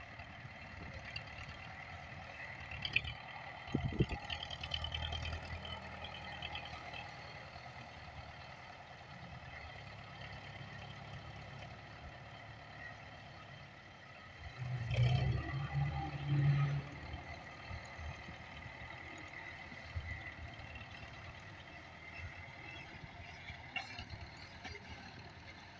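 Diesel tractor engine running steadily while working a front loader, with a sharp knock about four seconds in and a louder surge of the engine for about two seconds midway.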